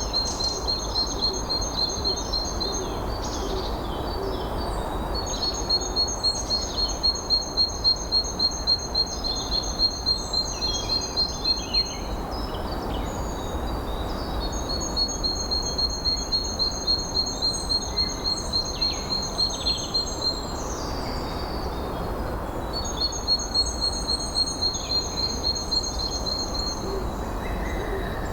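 A bird trilling in long runs of rapid, evenly repeated high notes, four runs of several seconds each with short pauses between, over a steady rush of wind.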